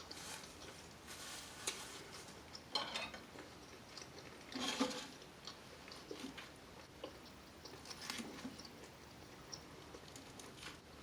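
Faint, close-up chewing and mouth sounds of eating, with a few short louder bites or crunches, the loudest about halfway through.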